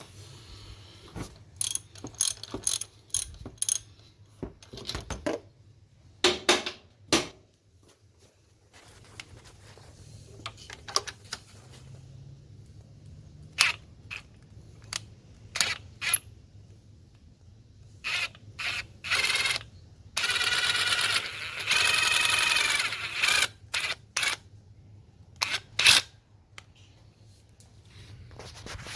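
Irregular clicks and knocks of mechanical handling over a faint low steady hum, with a longer rasping noise lasting a few seconds past the middle.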